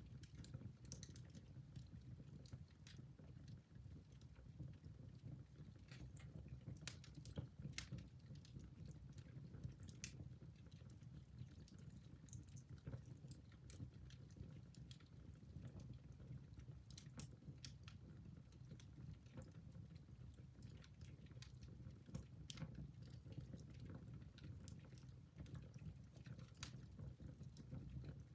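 Wood fire in a fireplace crackling: faint, irregular snaps and pops over a low, steady rumble.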